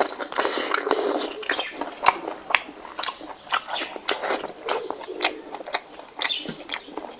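Close-miked wet chewing and lip-smacking of a mouthful of fried pork belly and rice, with many sharp, irregular smacking clicks.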